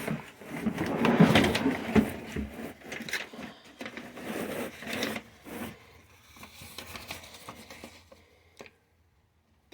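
Bag of diatomaceous earth being handled and turned over: irregular rustling, scraping and knocks, loudest in the first few seconds and dying away, then cutting to dead silence near the end.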